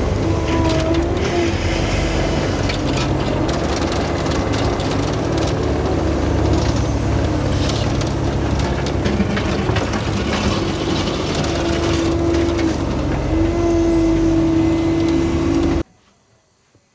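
Heavy construction machine's engine running, with a hydraulic whine that wavers and rises and falls, and scattered knocks and scrapes from the machine working the ground. It cuts off suddenly near the end.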